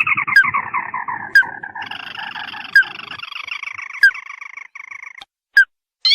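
Crake lure call: a long, fast trill that falls in pitch and levels off, ending about five seconds in. Over it, single short, sharp rising notes come about every second and a half.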